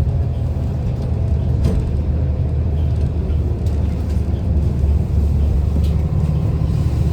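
City transit bus running, heard from inside the bus: a steady low engine and road rumble, with a few faint rattles.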